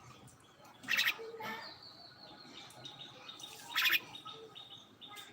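Common myna calling: two loud, harsh calls, one about a second in and one near the four-second mark, with a thin high whistle between them.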